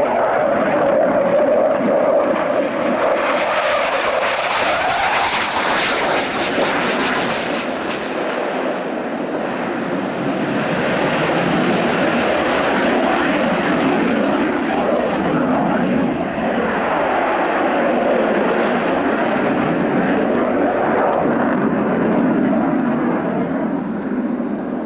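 Fixed-wing aircraft engine noise, a steady roar with a brighter, hissier stretch from about four to eight seconds in.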